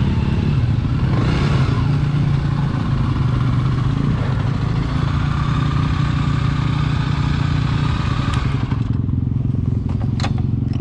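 Dirt bike engine running steadily, with a hiss of wind and trail noise over it that drops away about nine seconds in. The engine keeps running after that, and a few sharp clicks follow.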